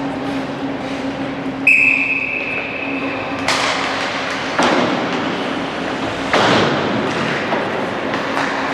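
A referee's whistle blown once and held for about two seconds in a gym full of game noise, followed by three sudden loud bursts of noise from the court and crowd.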